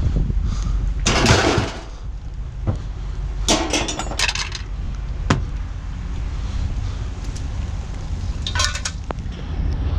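Scrap-metal chair parts clattering and clanking as they are tossed into a pickup truck bed, in several separate bursts over a steady low rumble.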